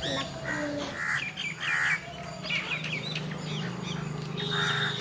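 Several birds calling: quick, high, hooked chirps with a few louder, harsher calls about a second in, near two seconds and near the end. A steady low hum sits underneath.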